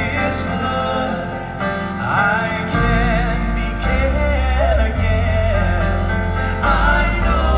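Male gospel quartet singing a slow song with instrumental accompaniment and a bass line that moves every second or two.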